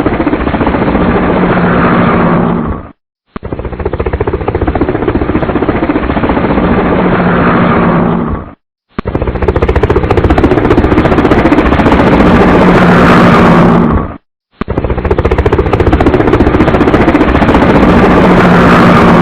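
Helicopter engine and rotor running loud, with a rapid, steady chop. The sound is cut into several stretches of about five seconds, each ending in an abrupt gap of silence.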